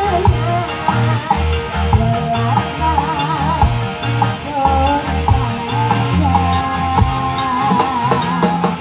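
Loud music played through a large hajatan sound system on test: a wavering lead melody over heavy bass notes that change in a steady beat.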